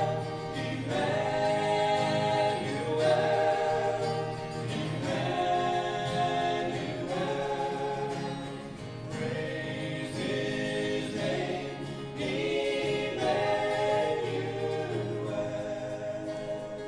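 A church choir singing a Christmas song, in held notes sung in phrases.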